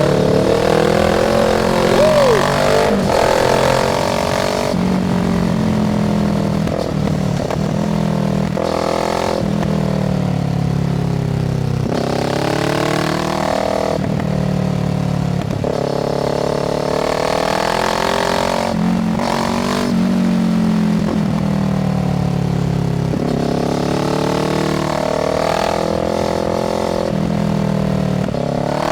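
Kawasaki Z650's parallel-twin engine through an IXIL aftermarket exhaust, accelerating hard through the gears: the revs climb, drop at each upshift and climb again, over and over.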